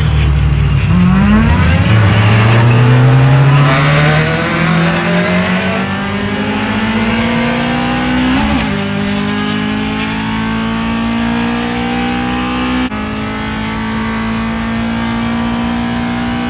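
Car engines accelerating hard on the highway, heard from inside a moving car over tyre and road noise. The engine note climbs steadily for several seconds, breaks briefly about eight seconds in, then holds high.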